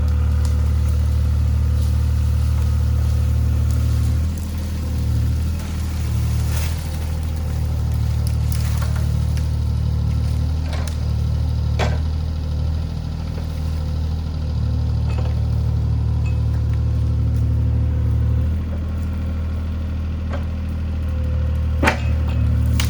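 Mini excavator's diesel engine running steadily under working load, its note dipping at times, with several sharp cracks through it and the loudest about a second before the end.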